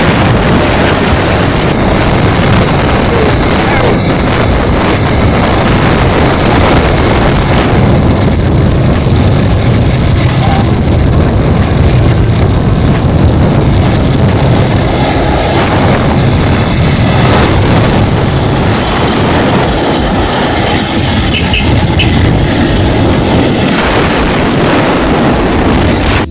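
Loud, steady roar of a waterfall close by, unchanging throughout.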